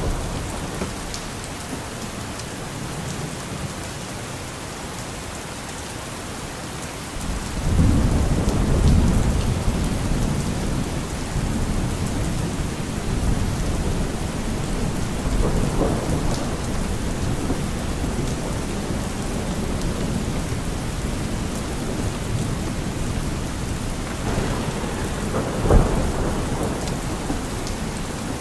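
Steady rain falling, with thunder rolling in about seven seconds in and rumbling on, and one sharper thunder crack near the end.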